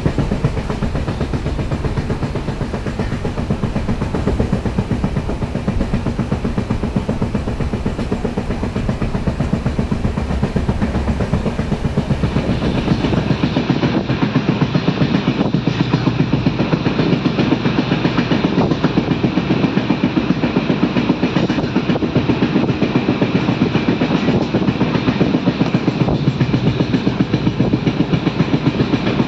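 Passenger train coach running at speed: a steady rumble of wheels on the rails with a fast, even beat of wheel knocks. About 13 s in, the sound turns nearer and brighter, heard from inside the coach at a barred window.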